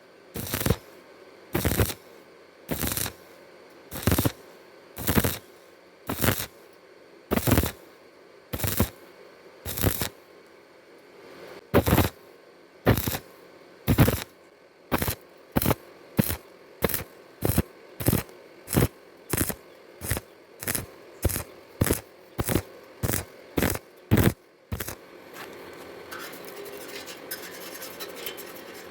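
Hammer striking metal in a long series of sharp, ringing blows, about one a second at first and then quickening to about two a second. The blows stop a few seconds before the end, and a steady hiss follows.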